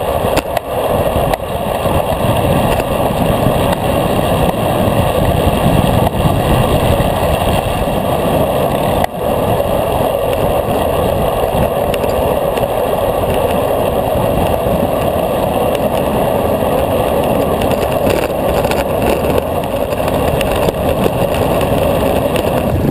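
Steady rush of wind and road noise from riding a road bicycle at speed, with wind buffeting the camera's microphone.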